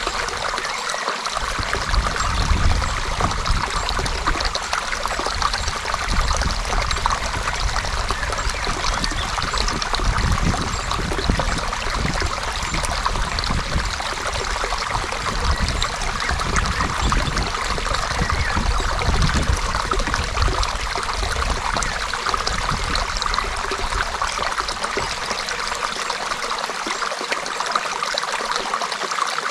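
A creek's water running and trickling steadily over stones.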